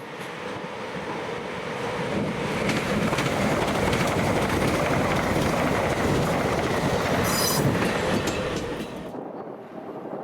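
A train passing on the main line, its sound building over the first few seconds, holding, then fading away near the end, with wheels clattering over the rails. A brief high wheel squeal comes about seven seconds in.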